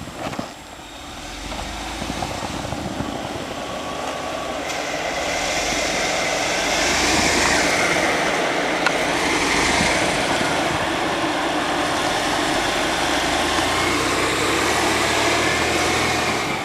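Car engine revving under load while a drive tyre spins fruitlessly in deep snow. The sound builds over the first few seconds, holds steady with a faint whine from the spinning tyre, and drops away just before the end.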